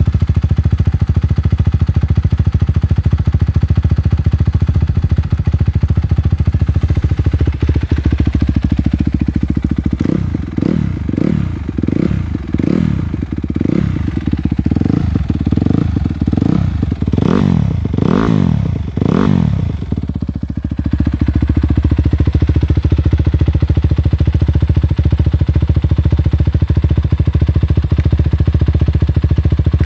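2013 Honda CRF250R's single-cylinder four-stroke engine, breathing through twin Yoshimura RS9 silencers, idling just after a cold start. Partway through it is blipped about a dozen times in quick succession, the revs rising and falling, the last few the highest, and then it settles back to a steady idle.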